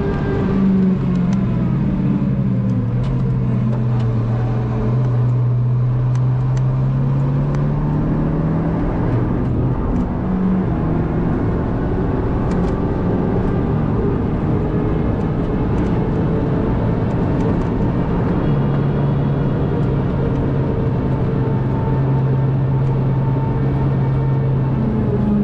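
MINI John Cooper Works GP (GP3) being driven, its turbocharged 2.0-litre four-cylinder engine note dropping in pitch over the first few seconds, climbing again about ten seconds in, then holding steady for long stretches before rising once more near the end.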